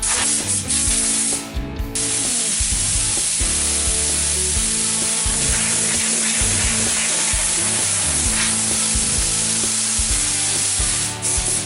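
Steady hiss of compressed air from an air gun, held for several seconds, between short bouts of sanding on the car's bodywork at the start and near the end. Background music plays underneath.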